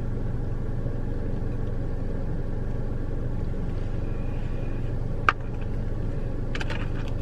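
Steady low hum of a car idling, heard from inside the cabin, with one sharp click about five seconds in.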